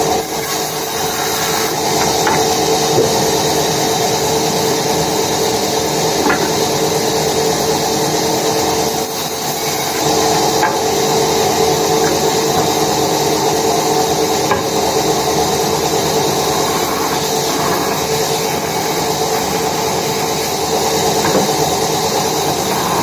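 Woodworking machinery running steadily with a constant hum while wood is worked, with a few faint knocks now and then.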